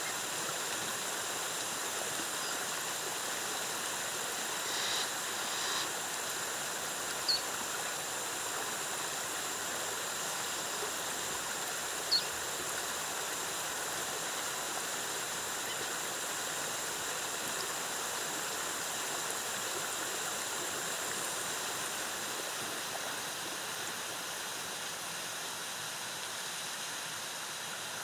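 Cascading water of a rainforest waterfall, a steady even rush, with two brief high chirps about 7 and 12 seconds in.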